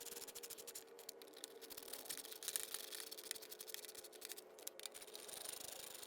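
Faint, rapid clicking and rattling of small metal parts and hand tools, likely screws being driven to mount a new recoil pull-starter on a mower. A faint steady hum runs underneath.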